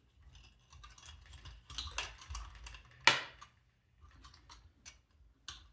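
Cables and small plastic parts being handled while wires are routed through a small robot's body: scattered light clicks and rustles, with one sharper click about three seconds in.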